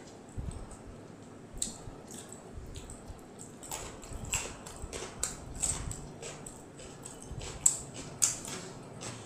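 Close-miked eating sounds: wet chewing and lip smacks, a run of short, sharp clicks that grows busier after the first second or so, with the two loudest smacks near the end.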